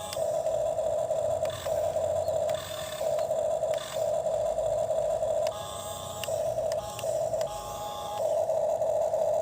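Small electric motor of a toy excavator whirring in short runs that stop and start every second or so.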